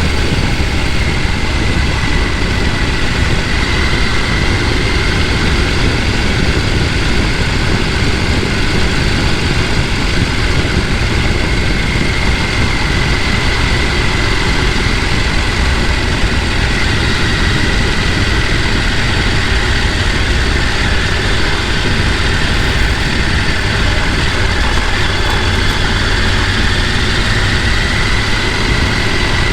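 Mountain stream rushing over rocks: a loud, steady, unbroken wash of water noise.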